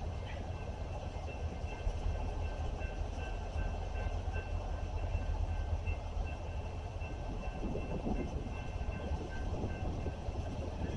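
A train rolling past with a steady rumble, and a faint high ring repeating evenly over it.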